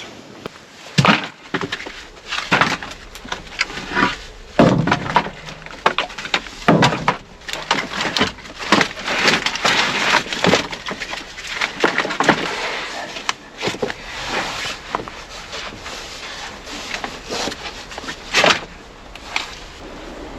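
Wood being broken and handled: a run of irregular sharp knocks and cracks, with a stretch of denser snapping and rustling near the middle.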